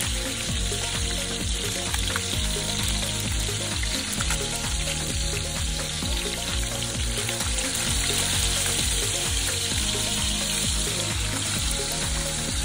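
Food frying in a hot pan, a steady sizzle with fine crackling, over background music with a regular beat.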